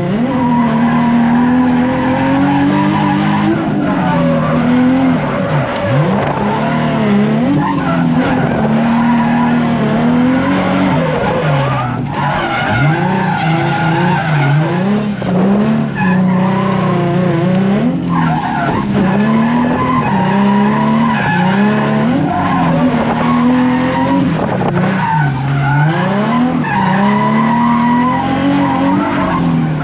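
Drift car's engine revving up and down repeatedly through a drift run, the pitch climbing and dropping every second or two, with tyres skidding throughout.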